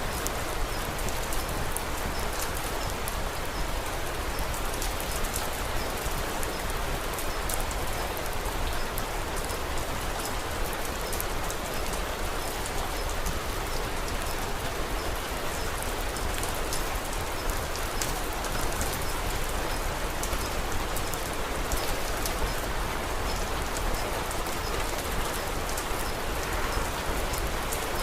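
Steady rain falling: an even hiss with many small sharp ticks of drops scattered through it.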